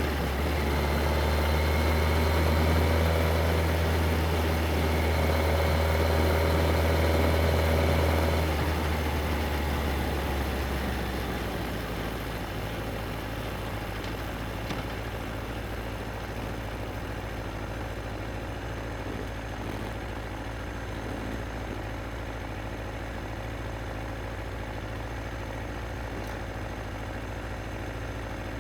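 Yamaha XJR1300 inline-four engine running at steady revs, then easing off as the bike slows over a few seconds, and settling into a steady idle. Wind and road hiss fades away as the motorcycle comes to a stop.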